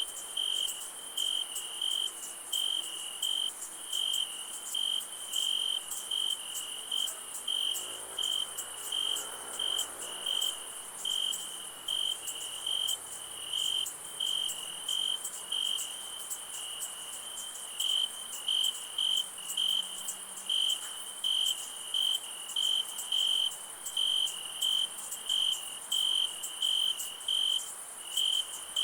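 Night insects, crickets, chirping in a steady pulse of about one and a half chirps a second, over a continuous high shrill trill.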